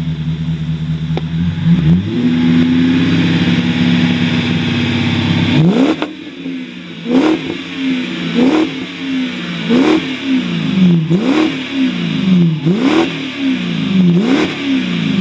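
BMW 7 Series engine breathing through a one-off custom exhaust with quad tailpipes. It runs steadily, steps up to a higher held engine speed about two seconds in, then is revved sharply about six times, each rev rising and dropping back, roughly one every second and a half.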